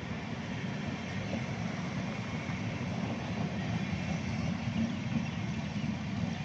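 Superfast passenger train running on the rails: a steady rumble with no breaks.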